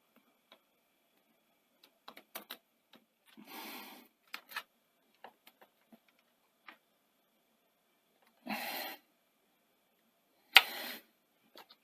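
Scattered small clicks and ticks of hands working on the Sony SL-C6 Betamax deck mechanism as a drive belt is fitted over its pulleys, with three short rustling bursts and one sharp knock about ten and a half seconds in.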